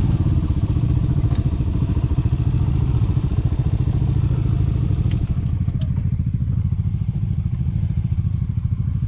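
Yamaha MT-07's parallel-twin engine running through a full-system aftermarket exhaust, a steady low exhaust beat that eases off and quietens slightly about halfway through.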